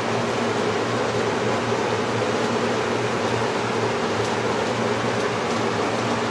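1970s Hunter 20-inch seven-bladed box fan (model 11027) running steadily: an even rush of moving air with a low steady hum.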